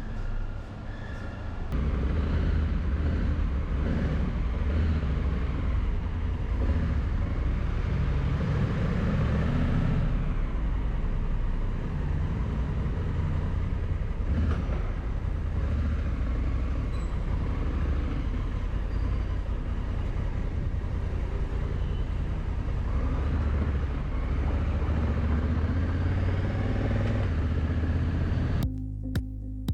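Honda Africa Twin motorcycle riding along the road: steady engine and road-wind rumble. It gets louder about two seconds in and cuts off just before the end.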